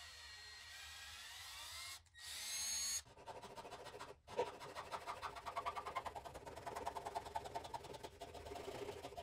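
A small power tool motor running in a few short clips: first a rising whine, then a fast, even rattle from about three seconds in.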